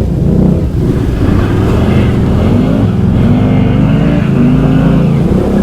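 Can-Am Outlander XMR ATV V-twin engines running under throttle through deep mud and water, engine pitch shifting a little as the throttle changes.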